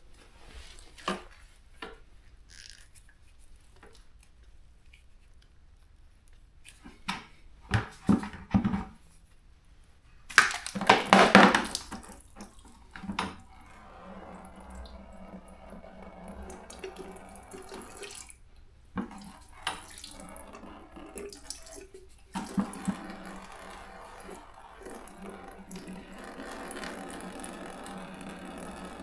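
A few scattered knocks and clinks, then a loud splashing rush. After that comes water running steadily, growing louder again in the last third.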